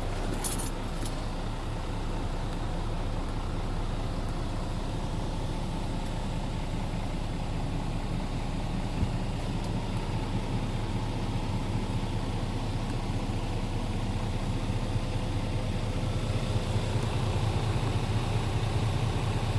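Scania R410 truck's diesel engine idling steadily, a low even hum, with a short high hiss about half a second in.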